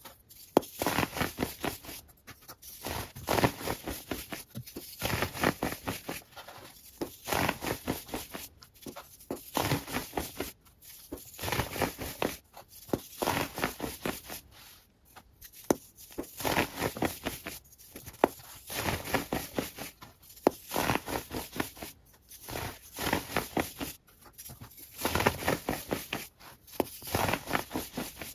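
Sped-up ASMR trigger sounds: bursts of dense, crisp crackling and tapping, each lasting a second or two, with short pauses between.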